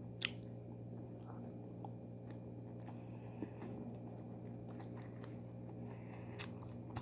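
A person chewing a mouthful of rice with yogurt and cucumber, with a few short, sharp mouth clicks and smacks, over a steady low hum.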